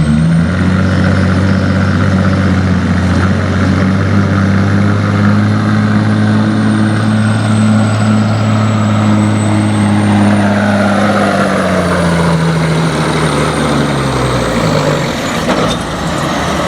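Semi tractor's diesel engine pulling a truck-pull sled at full throttle, with a high turbocharger whistle over the engine. About eleven seconds in the engine pitch falls as the engine slows under the load.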